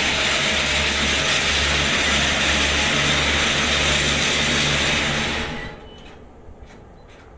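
Wheels and brakes of a slow intermodal tank-container freight train grinding loudly as it brakes to a halt to keep block distance behind the train ahead; the noise falls away abruptly about five and a half seconds in as the wagons stop.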